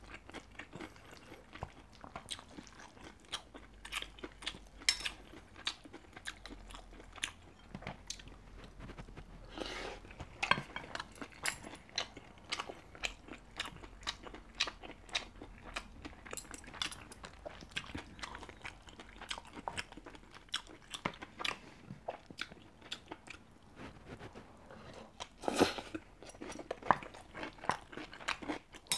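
Close-miked mukbang eating of beef bibimbap: irregular chewing and wet mouth smacks, with a wooden spoon scraping and clicking in a ceramic bowl, a louder cluster near the end.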